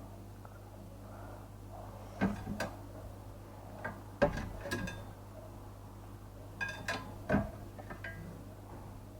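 Fruit being bitten and chewed close to the microphone: short wet crunching and squishing sounds in three bursts, about two, four and seven seconds in.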